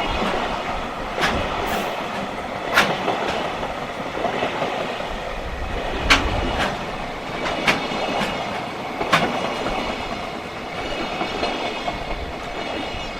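Freight train passing on electrified main line, its wagon wheels rolling with a steady rumble and a sharp clack over the rail joints every second or two.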